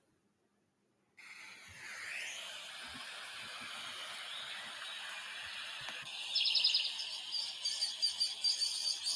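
Outdoor recording of wild birdsong that starts abruptly after about a second of silence: a steady background chorus of birds and insects, then from about six seconds a louder, fast trill of rapidly repeated high notes.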